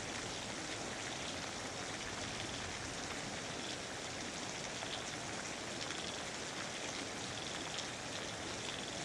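Steady rainfall in a rainforest: an even hiss of many drops with no breaks. Faint short high chirps come now and then in the second half.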